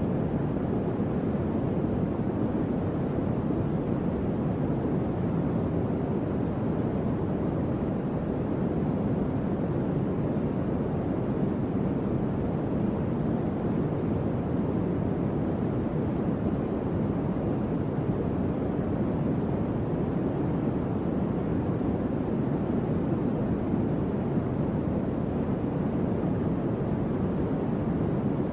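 Electric fan running steadily: an even, low rush of moving air with no hum, ticks or changes.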